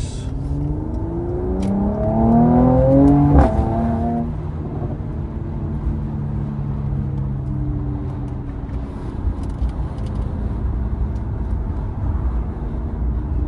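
Mercedes-AMG C43's engine accelerating hard, its pitch rising for about three seconds, then dropping suddenly at an upshift and running on steadily at a lower pitch.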